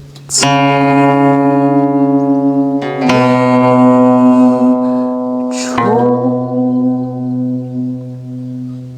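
Guqin plucked three times, about every two and a half seconds, each note ringing on long and slowly fading, over low held singing voices.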